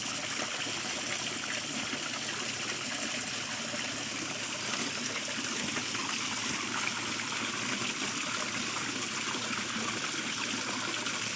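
Water running steadily over the spillways of a garden waterfall, an even splashing and trickling with no breaks.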